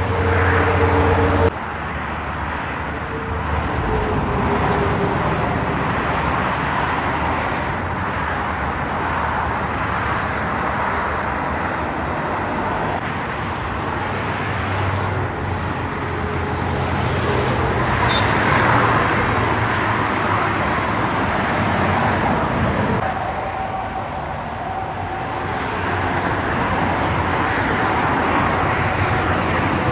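Road traffic passing on a highway: heavy trucks and cars going by with engine rumble and tyre noise, swelling and fading several times as vehicles pass. A loud, steady engine drone at the very start cuts off suddenly about a second and a half in.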